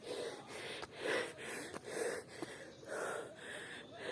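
A woman panting heavily through the mouth in quick, even in-and-out breaths, about two a second: she is out of breath from climbing a steep path.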